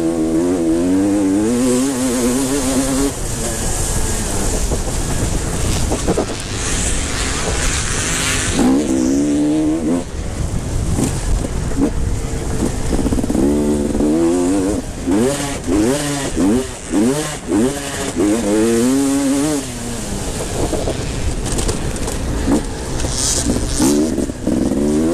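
Motocross motorcycles racing, their engines revving up and falling back over and over as the riders work the throttle through the track. Several bikes overlap in the middle stretch.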